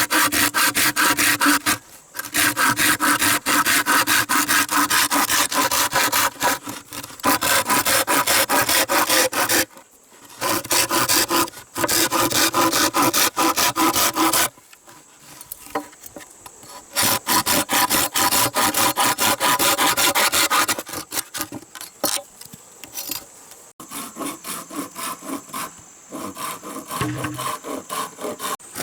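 Hand saw cutting wood in fast back-and-forth strokes, in bouts of several seconds with short pauses between them.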